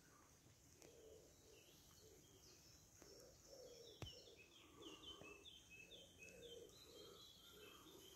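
Faint birdsong: from about three and a half seconds in, a small bird sings a quick run of repeated, short downward-slurred high notes over softer, lower calls. A single sharp click sounds about four seconds in.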